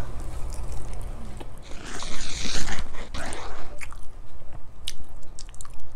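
Chewing close to the microphone: a hand-fed mouthful of rice and food being eaten, with scattered short clicks in the second half.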